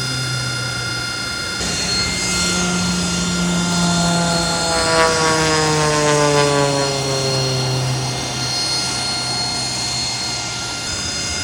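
Aircraft engine drone as a plane flies past, its pitch falling as it goes by about halfway through, over a steady engine whine.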